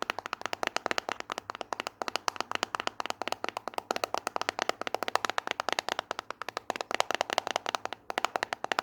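Fast ASMR tapping: a rapid, steady stream of sharp taps, many to the second, without a break.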